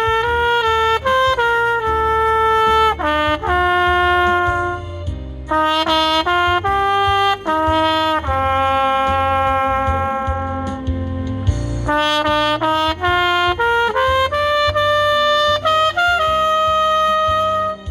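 Solo trumpet playing a slow ballad melody over a backing track with a bass line, in long held notes separated by short breaks between phrases.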